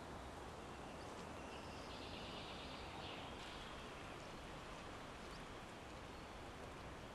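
Faint, steady outdoor background hiss, with a high, thin trilling bird call lasting about two seconds, starting a little over a second in.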